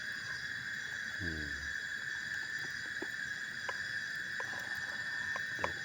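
Steady chorus of forest insects, a high even drone, with a few light clicks and a brief low human murmur about a second in.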